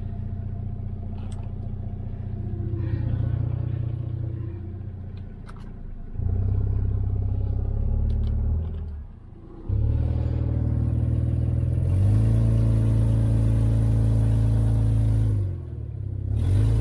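Lexus 4x4's engine heard from inside the cab, given gas in steps under load to climb the high-centred truck out of a hole against a come-along line. The engine note rises a few seconds in, drops off briefly past the middle, then runs at its highest for about three seconds with a hiss over it before easing off near the end.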